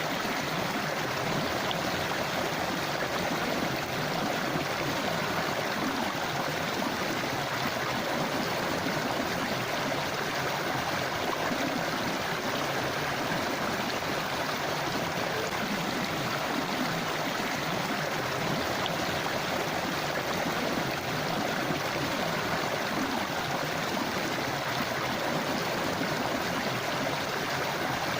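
A river running over rocks: steady rushing and gurgling water with no pauses.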